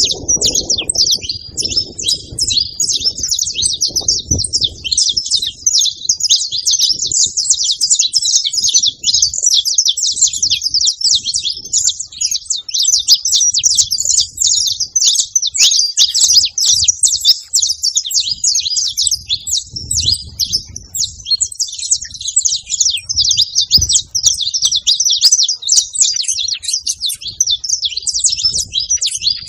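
A flock of saffron finches chirping and singing all at once, many short calls overlapping in a continuous high-pitched chatter.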